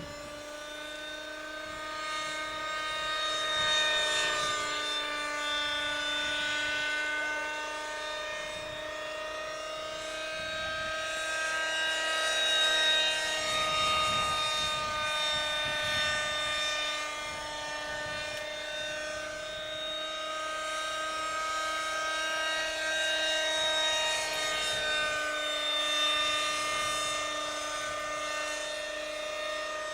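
Schlüter Magic radio-controlled model helicopter in flight: its engine and rotors give a steady whine whose pitch wavers a little, growing louder and fainter by turns as it flies about.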